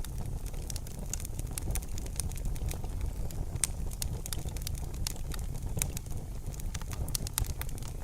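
Wood fire in a fireplace crackling, with many sharp irregular pops over a steady low rumble of burning.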